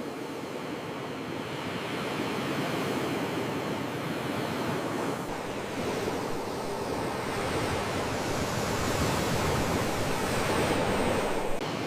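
Sea waves washing on the shore in a continuous rushing wash that slowly swells toward the end, with a brief click near the end.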